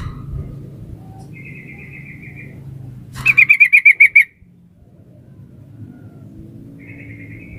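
Female yellow-vented bulbul (trucukan) calling for a male: short rapid bubbling trills, a faint one, then a loud one about three seconds in, then another faint one near the end, over a low steady hum.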